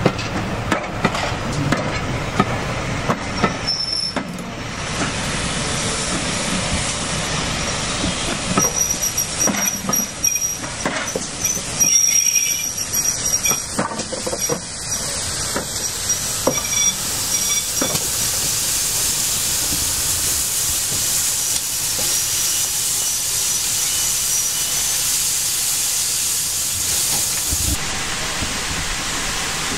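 Train of BR Mk1 passenger carriages rolling past, wheels knocking over the rail joints with a thin high squeal. A steady hiss takes over in the second half and cuts off suddenly near the end.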